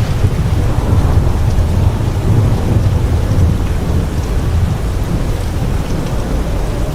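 Thunderstorm: steady heavy rain with a long, low rumble of thunder that eases a little toward the end.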